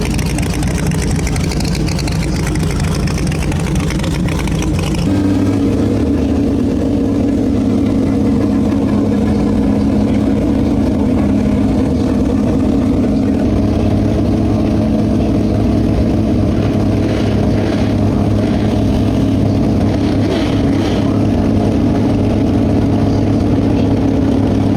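Motor vehicle engine running loudly. About five seconds in, the sound switches abruptly to a steady engine hum that holds one unchanging pitch.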